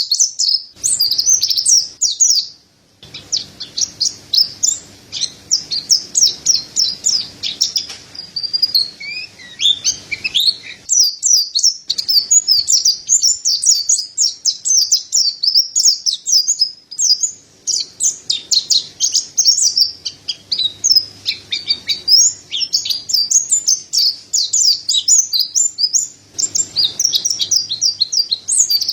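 Mountain white-eye singing a fast, high-pitched twittering song of rapid chirps and trills that runs almost without pause. A short break comes a few seconds in.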